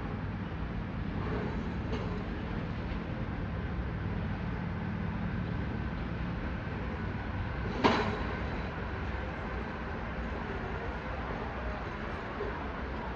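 Train's steady low running noise, with one sharp metallic knock about eight seconds in.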